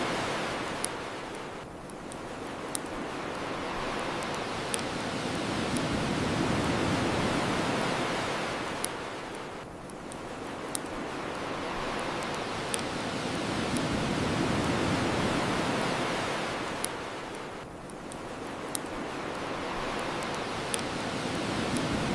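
Ocean waves washing onto a shore, swelling and drawing back about every eight seconds. Short sharp pops from a crackling bonfire come every couple of seconds over the surf.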